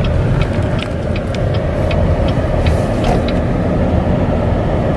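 Car driving, heard from inside: a steady low road and engine rumble with scattered light clicks and rattles.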